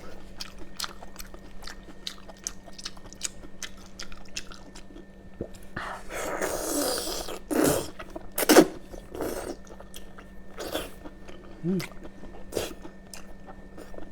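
Close-up sounds of someone eating seafood: repeated chewing and mouth clicks, with a longer noisy stretch about six seconds in and a couple of sharp, loud cracks around eight seconds.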